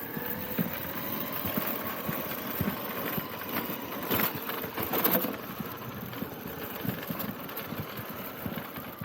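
Electric RC trail truck driving over rough ground: a faint, steady brushless motor whine with many short knocks and crunches from the tyres and chassis.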